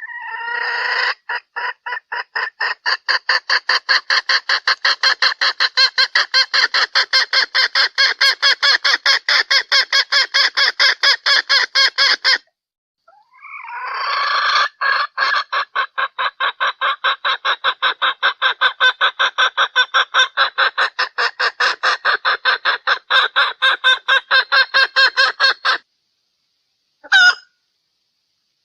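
Female junglefowl call: rapid, evenly repeated clucks at about four a second, in two long runs of roughly twelve seconds each with a short break between them, then one short call near the end. This is a hen's calling cluck of the kind used to lure wild junglefowl.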